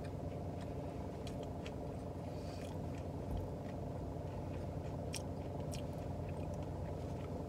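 A person chewing a mouthful of falafel pita wrap, with scattered faint wet mouth clicks, over a steady low hum inside the car.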